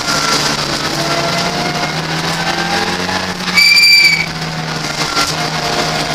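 Ford Fiesta race car engine heard from inside the cabin, its revs rising and falling through the gears in close racing traffic. About three and a half seconds in, a loud, high-pitched squeal cuts in for just over half a second.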